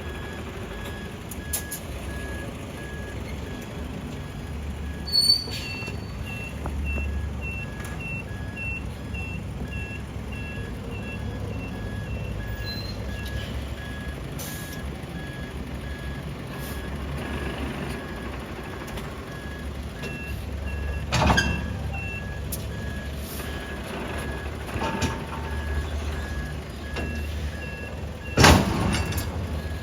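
Heavy truck engine running with a low rumble while a reversing alarm beeps steadily, a second higher beeper joining in stretches. Three loud sudden noises break in, about five seconds in, around twenty-one seconds and near the end, the last the loudest.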